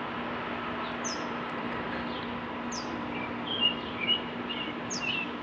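Small birds chirping, with short high chirps and quick falling whistles every second or so, over a steady faint hum.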